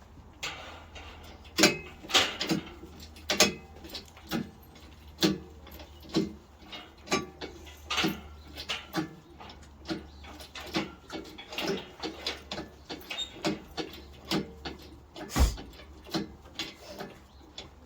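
A run of separate sharp knocks and clicks, irregular and about one to two a second, some much louder than others, over a faint steady low hum.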